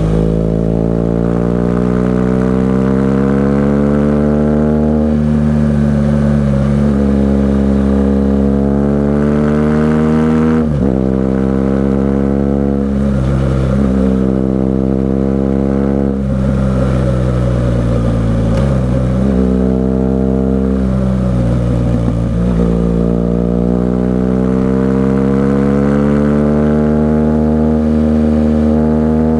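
BMW R 1200 GS Adventure's boxer twin running through an SC-Project aftermarket exhaust under way. The revs climb steadily and fall away sharply again and again, with the sudden drops of gear changes and the throttle worked on and off.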